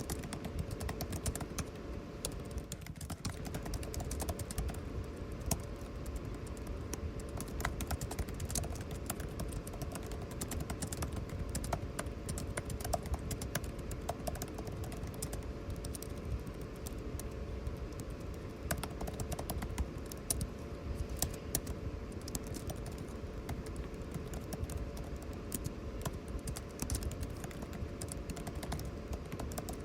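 Computer keyboard typing, a continuous irregular run of key clicks, over the steady hum of air conditioning.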